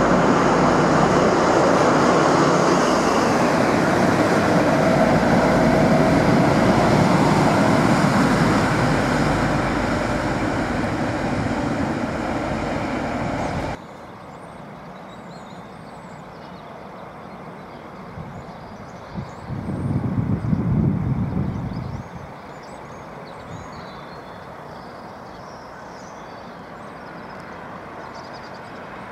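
InterCity 125 (HST) train passing at speed, its Mk3 coaches' wheels rushing along the rails and fading slowly as it draws away. The sound cuts off abruptly about halfway through. A quieter stretch follows, with a low rumble that swells and dies away about two-thirds of the way in.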